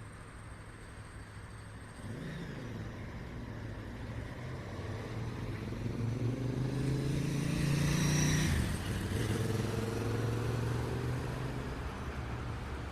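Street traffic with a steady low hum. A motor vehicle's engine approaches, passes close about eight seconds in with a clear drop in pitch, and then fades away.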